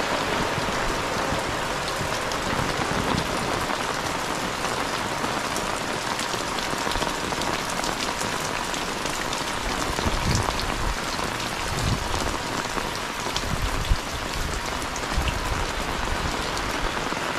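Heavy, steady rain falling on roofs, ground and leaves, with many close drop clicks and a single sharp tap near the end.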